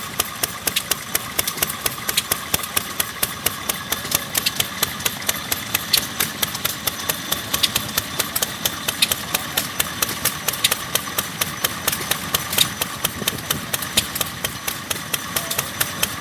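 Vintage E.R. Barlow stationary engine running steadily, a rapid, even clatter of sharp knocks from its moving parts over a steady mechanical hum.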